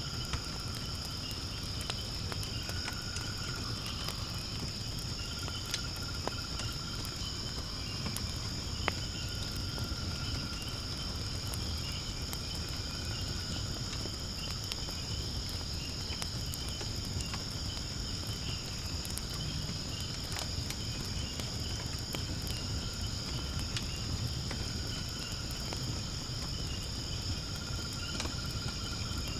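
Firewood burning in a fire pit, with scattered sharp crackles and pops over a low rumble, against a steady high-pitched chorus of insects and an on-and-off lower trill.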